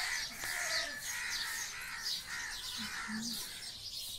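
Birds calling outdoors, short calls repeating two or three times a second, with thinner high chirps over them.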